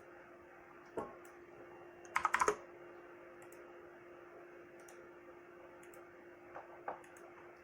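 Computer keyboard keystrokes and clicks: a single click about a second in, a quick run of about four keystrokes just after two seconds, and two softer clicks near the end, over a steady faint hum.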